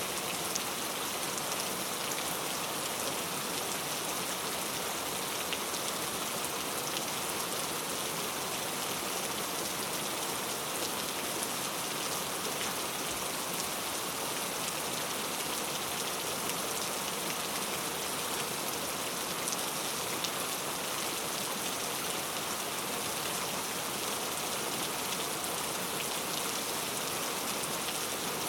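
Steady rainfall, a dense even patter of drops striking a surface, with no change in intensity.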